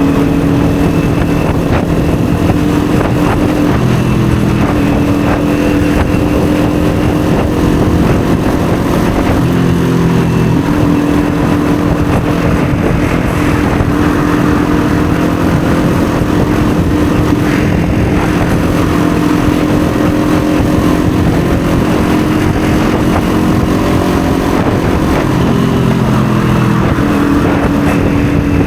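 Kawasaki Ninja 400 motorcycle's parallel-twin engine running under way, its pitch stepping down and back up a few times as the throttle changes, over a steady rush of noise.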